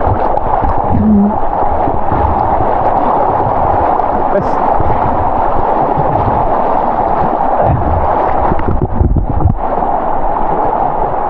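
Fast river water rushing and gurgling steadily close to the microphone, with irregular low knocks and thuds.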